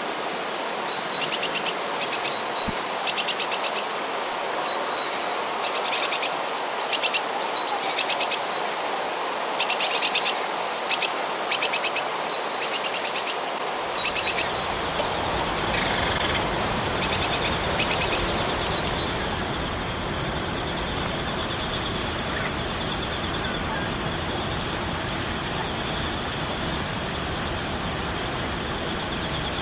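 Steady rush of a rainforest stream with birds calling in short repeated trills. About halfway through, a deeper rushing fills in and a steady high buzz sets in.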